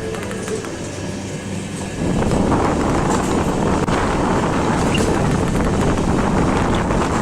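Running noise of a moving passenger train heard from on board: a steady hum that jumps suddenly to a much louder rush and rattle about two seconds in.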